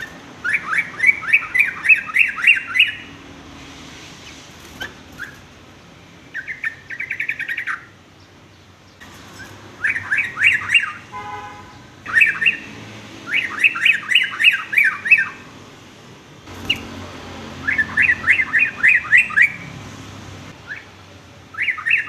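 Yellow-vented bulbul (trucuk) singing: repeated bursts of quick, bright chattering notes, about four notes a second, each phrase lasting one to two and a half seconds with short pauses between.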